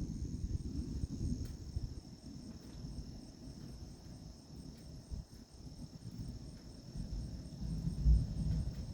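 Insects trilling steadily in a high tone, with a fainter chirp pulsing about three times a second above it. Underneath runs an uneven low rumble that swells near the end.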